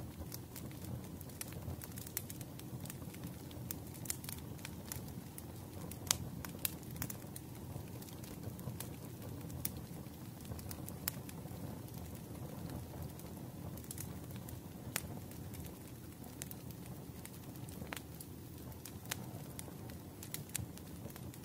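Wood fire in a fireplace crackling: irregular sharp pops and snaps over a low steady rumble of the flames, one pop standing out about six seconds in.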